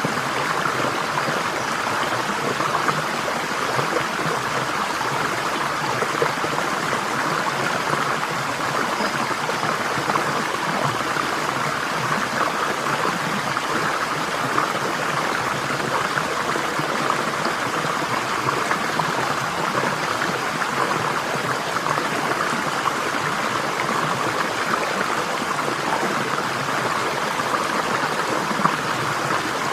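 Flowing water in a stream, a steady rushing and babbling.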